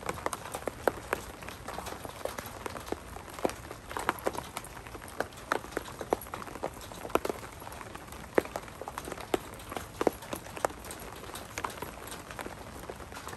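Steady rain with many irregular drips tapping close by, and two dogs scuffling and running on wet mulch as they play.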